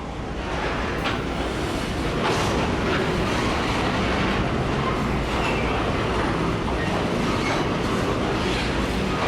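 Diesel freight train passing close by: a loud steady rumble with wagon wheels clicking over the rails.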